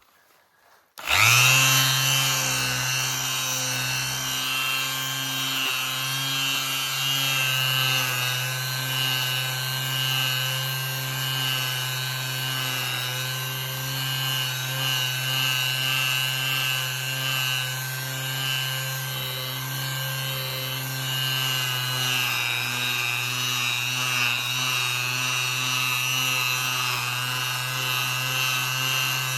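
Bosch GSS 23 AE orbital finishing sander switched on about a second in, then running steadily with a constant motor hum while sanding.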